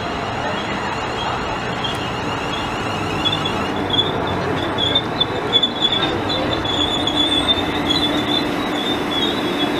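Greater Anglia Class 360 electric multiple unit running into the platform with a steady rumble. A high, wavering squeal from the wheels and brakes sets in about three seconds in and carries on, and a low hum joins near the end.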